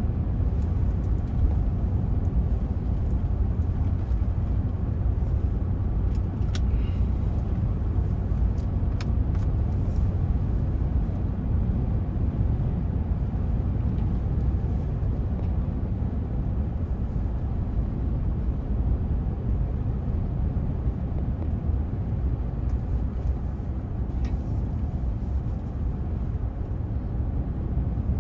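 Steady low rumble of a car's road and engine noise heard from inside the moving car, with a few faint brief ticks.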